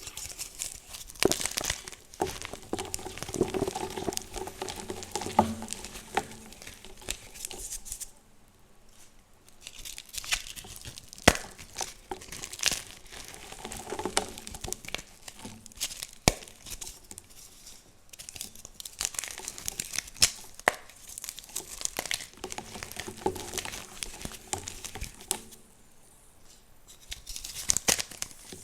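Dyed gym chalk blocks being crushed and crumbled by hand: a dry crunching and crackling with sharp snaps. It eases off twice, about 8 and 26 seconds in.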